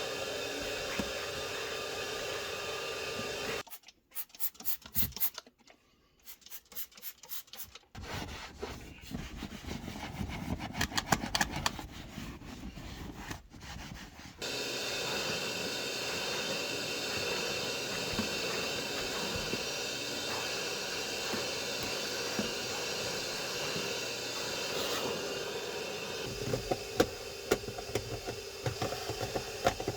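Scrubbing and rubbing sounds of hand cleaning, in several cut-together clips: rhythmic strokes in the first half, steadier rubbing after, and a few sharp taps near the end.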